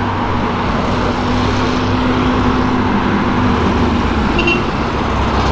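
Street traffic with a classic air-cooled Porsche 911 Targa and an air-cooled VW Beetle driving slowly past together, their engines running with a steady low hum.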